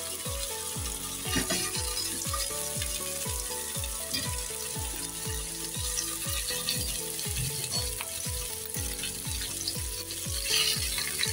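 Masala-coated steamed chicken pieces sizzling in hot ghee in a non-stick frying pan as more pieces are laid in with tongs, under background music with a steady beat.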